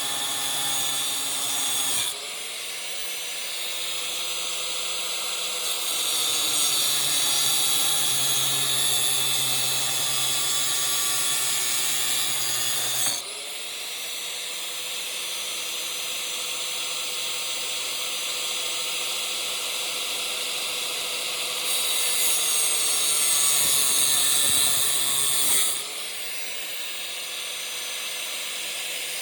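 Angle grinder with a cutoff wheel cutting through a metal housing from a window air conditioner, a steady high-pitched grinding. Three times the wheel comes free and its motor climbs back up in pitch, then the sound grows louder as it bites back into the metal.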